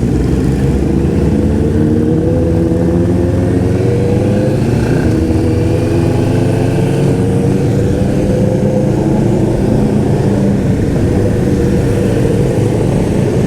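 Honda CBR500R parallel-twin motorcycle engine running under way, its pitch climbing slowly twice as it pulls through the gears.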